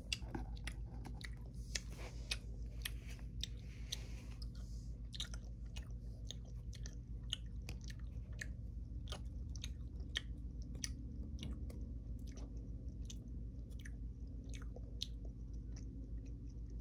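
Skittles being chewed close to the microphone: an irregular run of small mouth clicks and smacks, roughly two a second, over a steady low hum.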